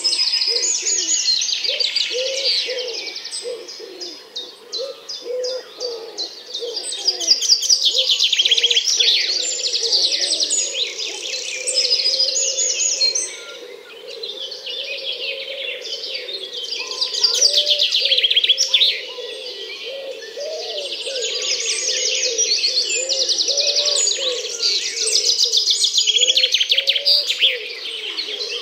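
A dense chorus of many birds: rapid, repeated high chirps and trills, over a continuous layer of lower, short calls.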